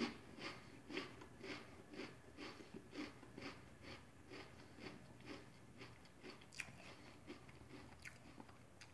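A person chewing a mouthful of Pringles potato crisps, faint crunching about twice a second that fades as the crisps break down, with a few last crunches near the end.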